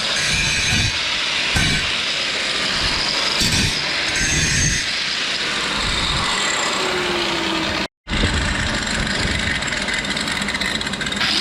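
Steady, harsh metalworking noise on steel, broken by a sudden brief silence about eight seconds in.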